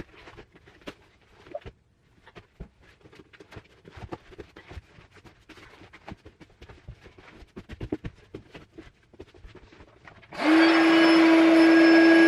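Light clicks and rustles of handling the air mattress, then about ten seconds in an electric air pump switches on and runs loudly with a steady hum, inflating the air mattress.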